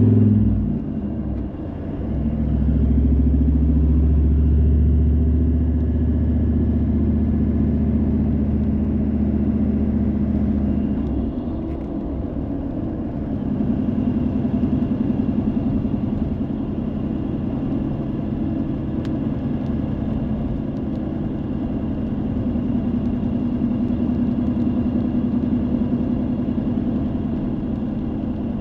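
A car being driven: steady engine hum with road rumble. The engine note drops about a second in and changes again around eleven seconds in, as with a shift in speed or gear.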